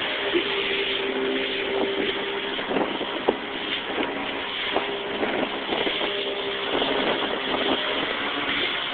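Motorboat under way: the engine runs steadily with a constant hum under wind and water noise, and short knocks now and then.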